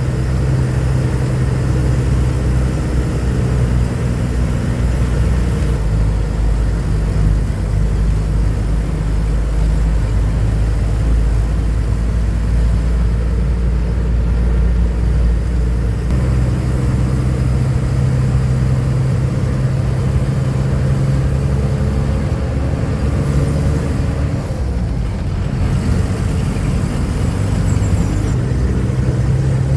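Truck engine running while driving, its note fading and picking up again several times with the throttle.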